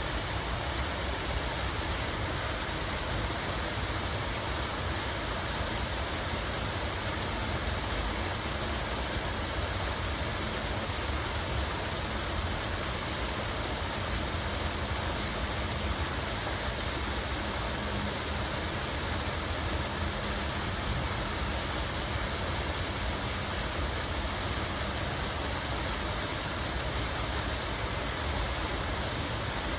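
Steady rush of running water, unchanging throughout, with a low rumble underneath.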